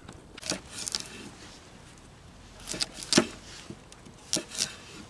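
Several short, irregular knocks and clatters, some in quick pairs.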